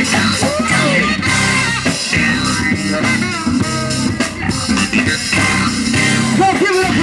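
Live band playing an instrumental funk groove, with drums, bass guitar and a wavering lead line over the top.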